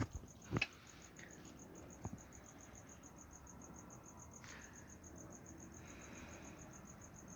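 Crickets chirping in a rapid, even pulse, with a couple of light knocks in the first two seconds.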